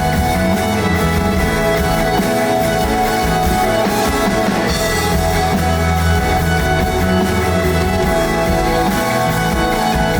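Live rock band playing loud and steady, an instrumental stretch of the song with sustained guitar and bass notes.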